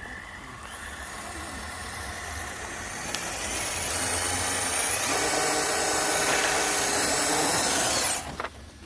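Electric motor and gear drivetrain of a 1/10-scale RC crawler truck whining under throttle. It grows louder over several seconds, then cuts off suddenly near the end.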